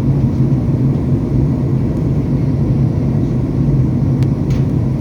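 Steady low drone of an airliner's cabin in flight: the engines and rushing air heard from inside, with a deep hum under it. A couple of faint clicks sound near the end.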